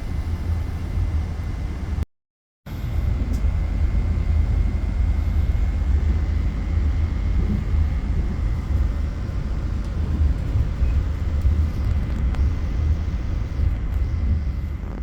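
Passenger train running at speed, heard from inside the carriage: a steady low rumble of wheels on the track with a faint steady whine. The sound drops out for about half a second around two seconds in, then fades away near the end.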